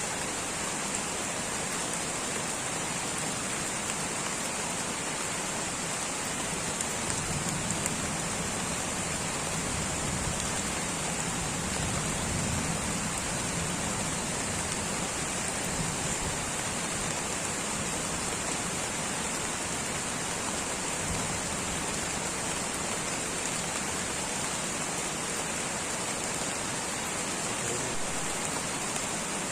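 Steady light rain falling on tropical rainforest foliage, an even hiss of many drops with no single drop standing out.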